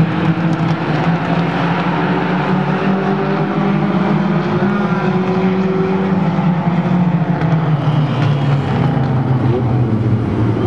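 Race car engines running loudly at speed, with their pitch sinking lower over the last few seconds.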